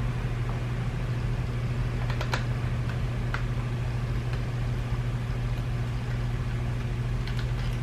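Small clicks and taps of the BMW iDrive controller's plastic parts being worked apart by hand: a few light clicks about two seconds in, one a second later, and a pair near the end, over a steady low hum.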